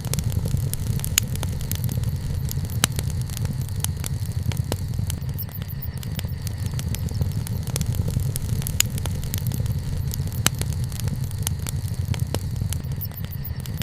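Wood campfire burning, with scattered sharp crackles and pops, a few louder snaps among them, over a steady low rumble.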